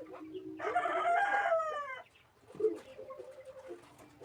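A rooster crowing once, a call of about a second and a half that starts just under a second in and falls in pitch at its end.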